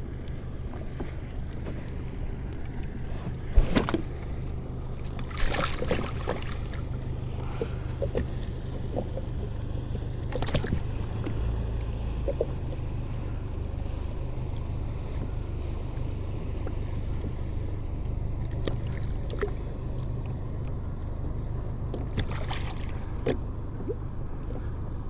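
Steady low wind-and-water rumble at a fishing kayak, broken by a few sharp knocks, the loudest about four seconds in.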